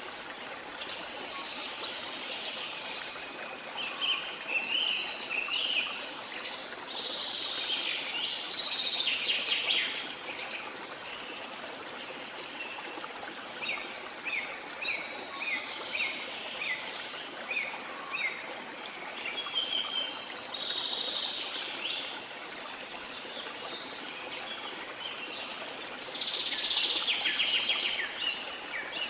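Steady rush of waterfall water under rainforest birds singing, with bursts of song, a run of short quick chirps midway, and a louder burst of song near the end.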